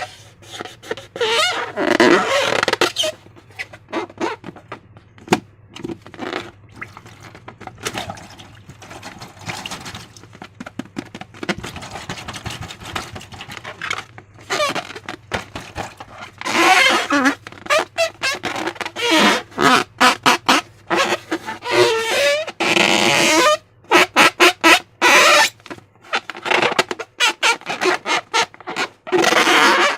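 Slime being squeezed and worked by hand, giving irregular wet squelches, with louder runs of quick squelches in the second half.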